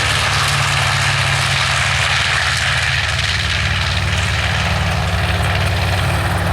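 Jet aircraft engine running: a steady, loud rushing noise over a low hum.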